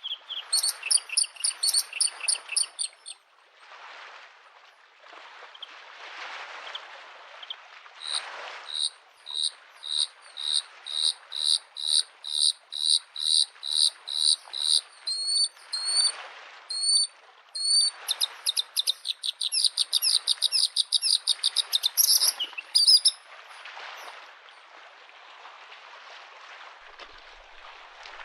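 Bluethroat singing: a short burst of notes, then a long series of clear repeated notes about two a second that speed up into a rapid trill and stop about three quarters of the way through. Small lake waves wash on the shore in swells beneath the song.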